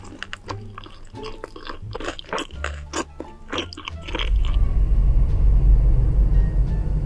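Close-up crunchy chewing, a quick run of crisp crunches, over background music. About four seconds in, the crunching stops and a loud steady low rumble takes over.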